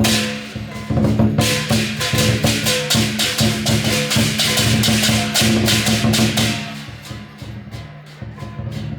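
Lion dance percussion ensemble playing: a large drum beating under rapid, repeated cymbal clashes. The cymbals fade out about seven seconds in and the playing turns quieter.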